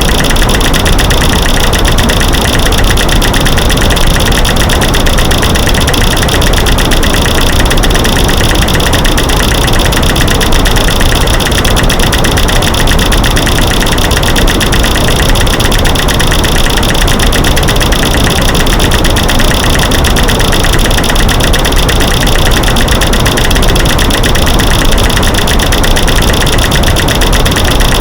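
Loud, dense, unbroken stream of rapid clicks and knocks, mixed from light-switch clicks, snapping sticks and rocks banged together, over a steady white-noise hiss; a masking noise track that stays even throughout.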